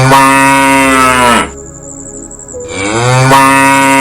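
A cow mooing: two long, loud moos, the first ending about a second and a half in and the second starting near three seconds in.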